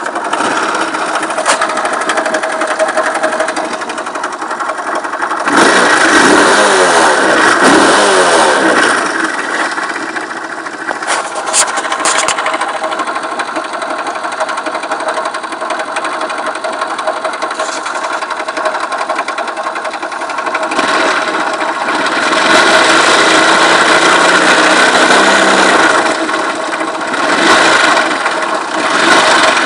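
Viper Active scooter engine running, revved up about six seconds in and again later, with a ticking knock whose cause the owner cannot pin down.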